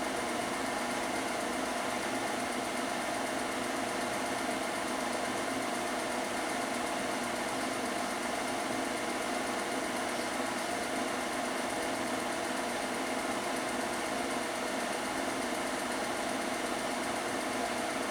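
Film projector running: a steady mechanical hum.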